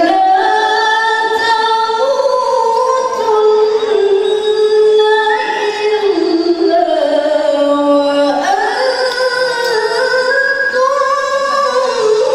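A woman reciting the Quran in melodic tilawah style, holding long ornamented notes that step and slide between pitches with few pauses.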